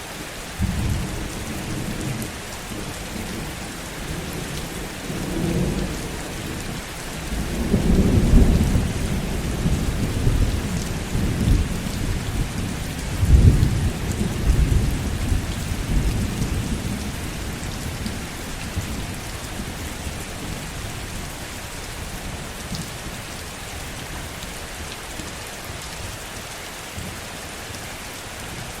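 Heavy rain falling steadily, with a long roll of thunder that swells twice, strongest about eight and again about thirteen seconds in, then rumbles away, leaving the rain alone for the last third.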